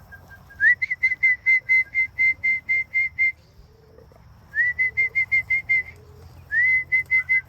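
Person whistling a pigeon call: each run opens with a quick upward slide, then a rapid string of short notes on one high pitch at about five a second, repeated in three runs. It is the call whistle used to bring young racing pigeons into the loft.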